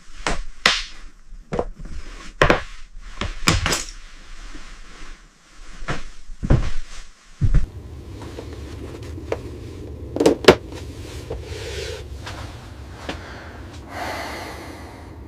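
A run of sharp knocks and thuds, several close together in the first few seconds and two loud ones about ten seconds in, with a low steady rumble from about halfway through.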